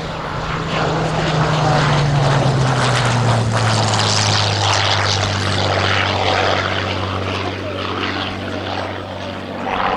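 Hawker Hurricane Mk.IV's Rolls-Royce Merlin V12 engine droning as the aircraft flies past. Its note drops in pitch about two seconds in and then holds steady as the sound slowly fades.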